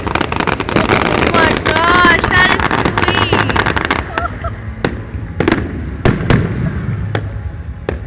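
Fireworks going off: a dense run of crackling reports for the first half, then single bangs about half a second to a second apart.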